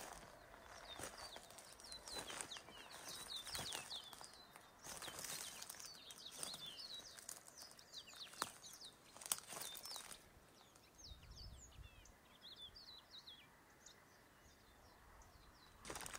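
Small forest birds chirping again and again, many short high notes that slide downward. Scattered footsteps crunch through the first ten seconds, then stop.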